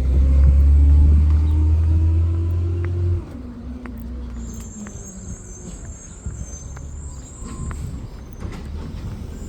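Recycling garbage truck engine revving with a heavy rumble and a rising pitch for about three seconds, then dropping back suddenly to a lower running sound. A thin high squeal comes in about halfway through and lasts a few seconds.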